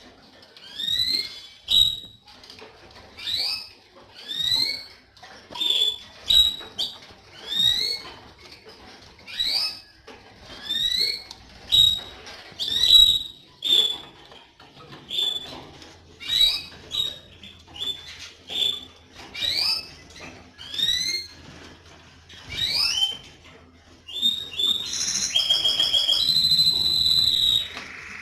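Canary calling with short rising chirps, about one a second, then breaking into a fast rolling trill near the end.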